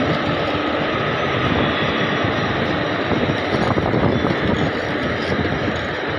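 A goods train running past close by: a loud, steady rumble of wagon wheels on the rails, with no break.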